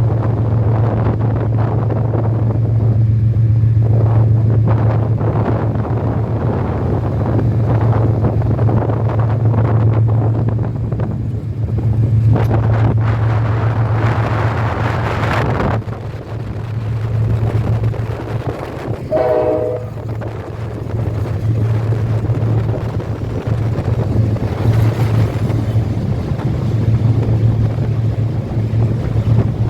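A diesel passenger train passing over a steel rail bridge: a steady low hum and a rumbling clatter, with wind noise on the microphone. A short horn blast sounds about two-thirds of the way through.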